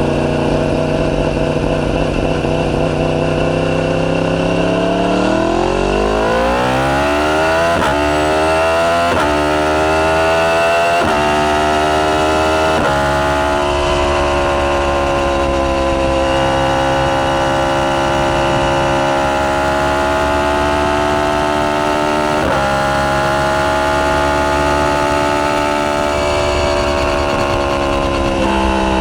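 A Yamaha YZF-R1's crossplane inline-four runs through a decatted Akrapovic full titanium exhaust. It holds a steady low pitch at first, then accelerates hard from about five seconds in, climbing in pitch through three quick upshifts. After that it holds a steady high pitch at speed, with one more shift, and eases off near the end.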